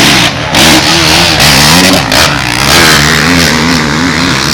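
Motocross bike engine revving hard close by, its pitch rising and falling with the throttle, with short drops in sound about a quarter second and two seconds in.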